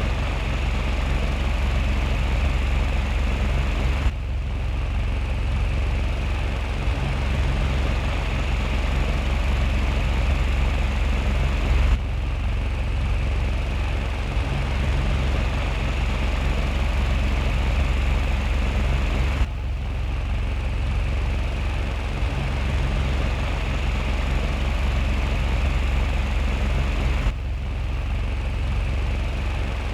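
Small electric mini ceiling fan running: a steady low motor hum with an airy whir of the blades. The sound breaks off briefly three times and resumes each time.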